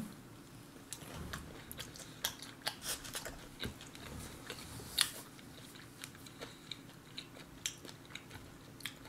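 Faint, irregular crunching and clicking of someone chewing and biting food, with one sharper click about five seconds in.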